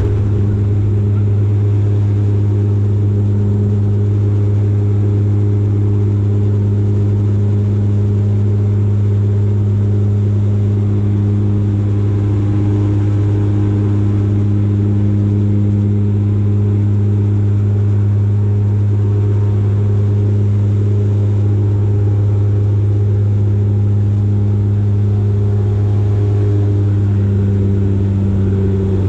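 Dash 8 Q400 turboprop engine and six-bladed propeller droning steadily in flight: a loud, even low hum with higher overtones, unchanging throughout.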